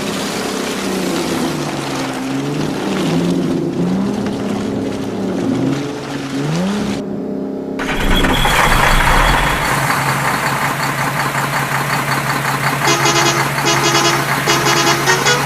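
Engine revving, rising and falling in pitch. After a sudden cut about 8 s in, a steadier engine sound runs, with a run of short horn beeps starting near the end.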